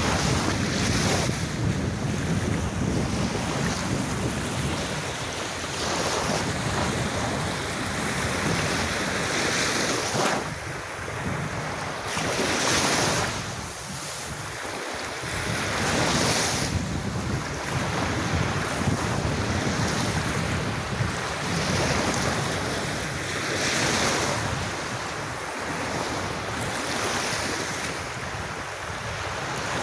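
Calm sea waves washing onto a beach, each surge swelling and fading every few seconds, with wind rumbling on the microphone.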